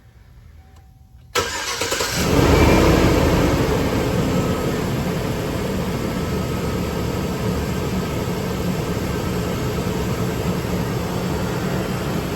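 Chevrolet Express 3500's 4.8-litre V8 starting about a second and a half in, flaring briefly, then settling into a steady idle.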